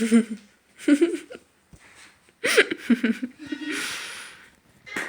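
Laughter in short bursts, ending in breathy, wheezing giggles.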